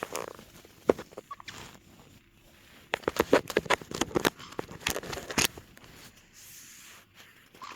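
Caique parrots scuffling and playing in bed blankets: fabric rustling with short, sharp squeaks and clicks. The sounds come in a quick cluster between about three and five and a half seconds in.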